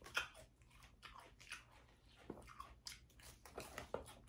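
A person chewing a mouthful of crisp salad close to the microphone: a run of short, irregular crunches and wet mouth clicks.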